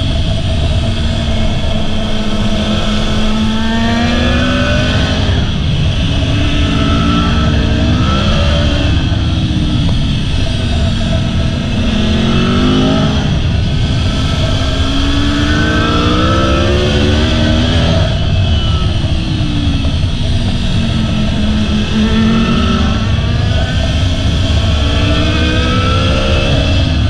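Aprilia motorcycle engine at speed, its pitch climbing and dropping back several times as the throttle is opened and eased off through the bends, over a steady rush of wind on the microphone.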